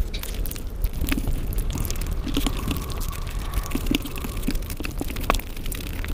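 Close-miked wet chewing and lip smacking of someone eating biryani with their hands, full of small crackly clicks, with fingers squishing through the rice on the plate.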